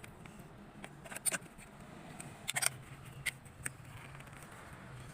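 Several sharp clicks and ticks, in a quick cluster about a second in and again about two and a half seconds in, with a few single ones later, over a low steady hum.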